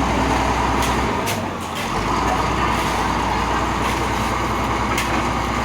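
Heavy diesel engine of a truck or construction machine running steadily, its low hum dropping briefly about a second in before resuming.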